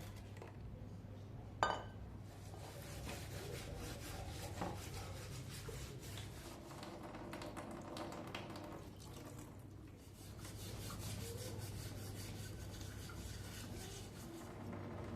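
Hand work on metal parts: continuous rubbing and scraping in many quick strokes, with one sharp clink about one and a half seconds in.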